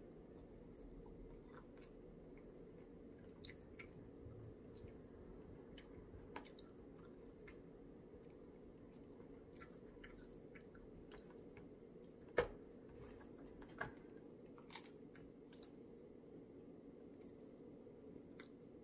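A person eating chicken: faint chewing over a steady low room hum, broken by a handful of small sharp clicks, the loudest about twelve seconds in.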